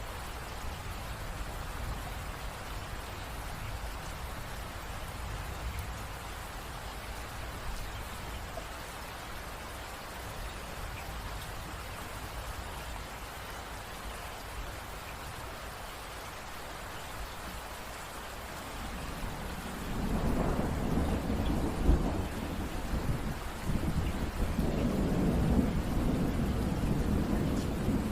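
Steady rain falling, and about two-thirds of the way through a roll of thunder comes in and rumbles on, with a sharp crack in its first part.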